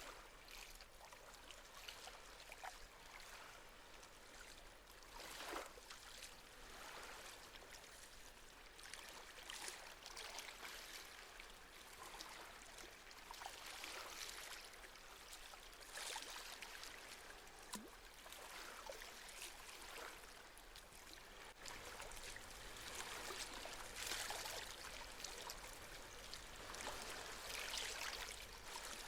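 Gentle sea waves washing and lapping at the shore: a soft hiss of water that swells and fades every few seconds.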